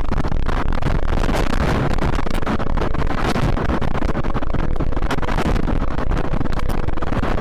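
Strong wind rushing and buffeting across the microphone in a loud, steady roar of noise with no distinct tones.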